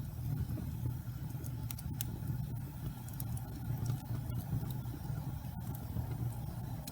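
Wood fire burning in a fireplace: a steady low rumble with scattered small crackles and pops, a few a second at most.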